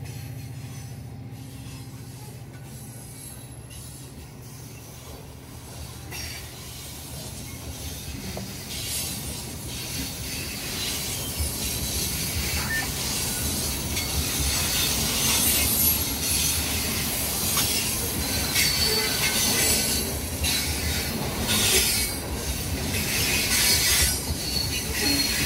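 Wood-chip hopper cars of a freight train rolling past, a steady low rumble of wheels on rail with squealing and clatter. It grows louder and harsher from about six seconds in.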